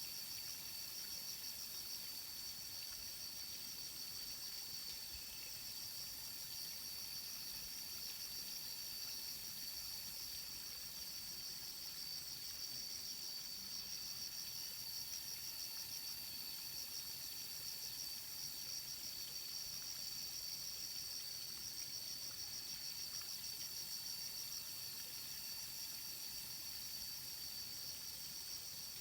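Insects trilling steadily in a high, rapidly pulsing chorus.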